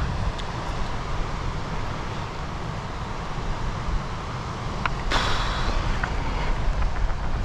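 Wind rumbling steadily on the microphone, with a short rush of noise about five seconds in.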